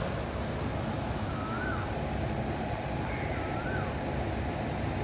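A bird calls twice, each a short clear note that rises and then falls, about two seconds apart. Under the calls runs a steady low background noise.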